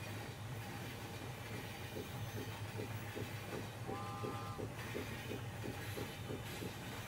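Passenger train ambience: a steady low rumble of the running train with a rhythmic clickety-clack of the wheels at about three beats a second starting about two seconds in, and a brief high tone about four seconds in.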